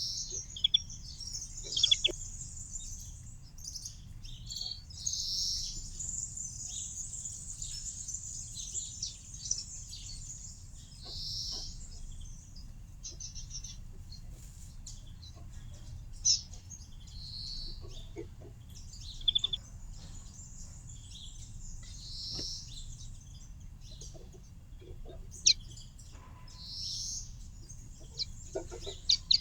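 Small songbirds chirping and singing in high-pitched twitters, with one short call repeating every five or six seconds. A few sharp taps stand out here and there.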